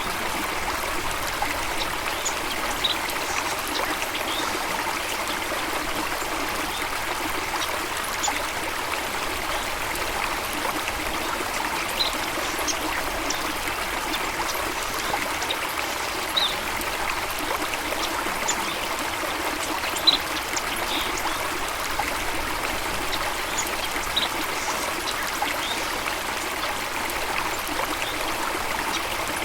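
Stream water running steadily, with scattered short high plinks over it; the sharpest is about twenty seconds in.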